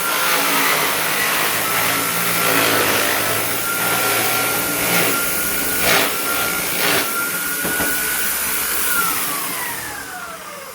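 Electric drill motor running at speed with a steady high whine, with a few knocks in the middle, then winding down in falling pitch near the end as it is switched off.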